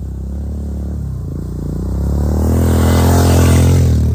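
Honda CRF125 dirt bike's four-stroke single-cylinder engine pulling hard under load up a steep hill. The engine note rises in pitch and gets louder from about halfway in, then eases off near the end.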